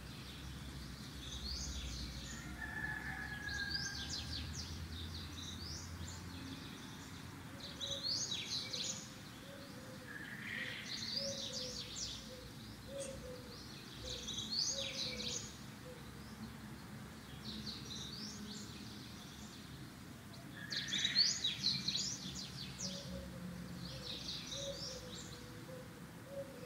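Small birds chirping: short bursts of quick, high notes repeated every couple of seconds, with a fainter run of lower notes in places.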